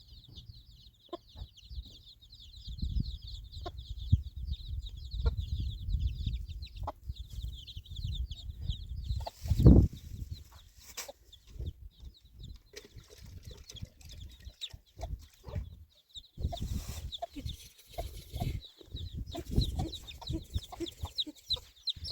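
Chickens clucking over steady, rapid high-pitched chirping, with a low rumble underneath. There is a single loud thump about ten seconds in.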